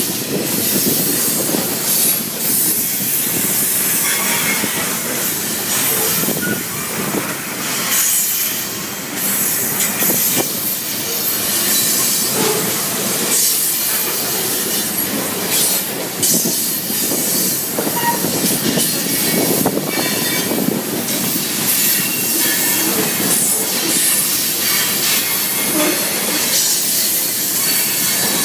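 Freight train of covered hopper cars rolling past, a steady loud clatter of steel wheels on the rails with wheel squeal mixed in.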